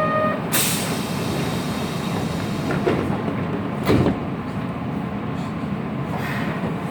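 Kyoto Municipal Subway 10 series chopper-controlled train running through the tunnel: a steady low rumble, a short hiss under a second in, and two knocks from the wheels about a second apart near the middle.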